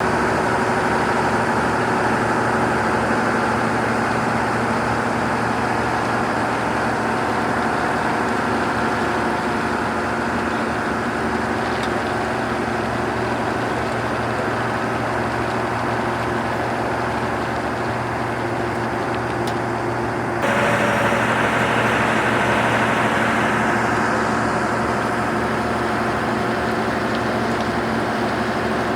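Heavy machinery engines running steadily at a railway track-repair site, with an abrupt change in the mix of engine tones about two-thirds of the way in.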